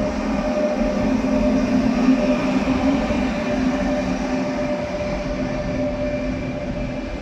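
Train running at a station platform: a loud, steady rumble with a constant whine through it.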